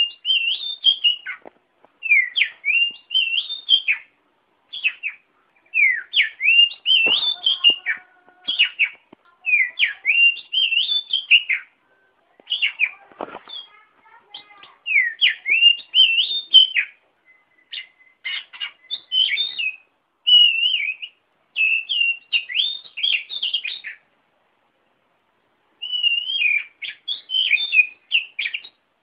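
Oriental magpie-robin (kacer) singing: quick runs of short whistled notes sweeping up and down, in phrases separated by brief pauses, with a longer pause of about two seconds near the end.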